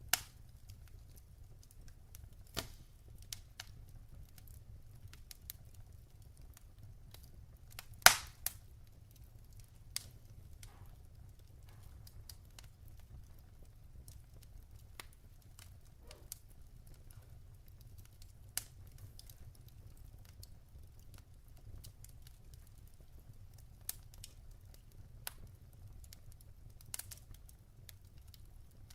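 Logs burning in a fireplace: scattered crackles and pops, the loudest a sharp pop about eight seconds in, over a faint low rumble.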